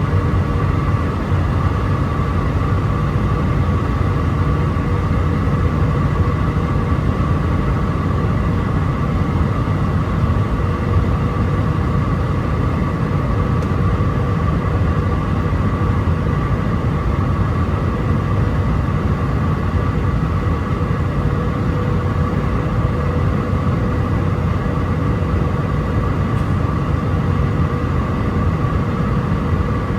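Steady cabin noise of an Airbus A319-131 in flight on approach, heard from a window seat: a low rumble of its IAE V2500 engines and airflow, with a steady whine over it.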